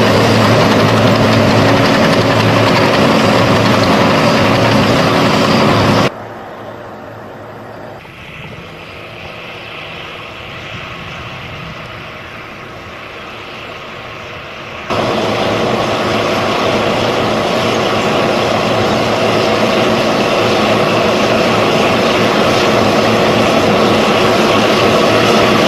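Heavy tractor engines running under load, with abrupt cuts between clips: loud, then a quieter engine sound for about nine seconds from about six seconds in, then loud again.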